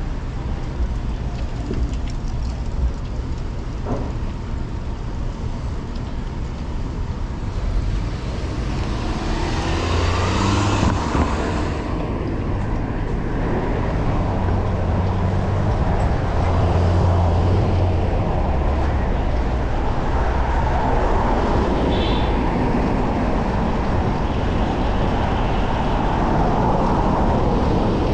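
Street traffic: motor vehicles running and passing close by. One engine's pitch rises and falls about a third of the way in, and a heavy low engine hum follows.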